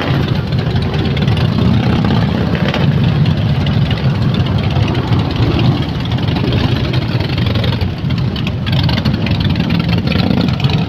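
Harley-Davidson V-twin motorcycle engines running together at idle, a loud, steady low rumble with no single engine standing out.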